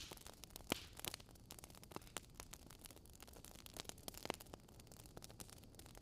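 Faint crackling wood fire: a low hiss with irregular snaps and pops, a sharper pop about a second in and another a little after four seconds.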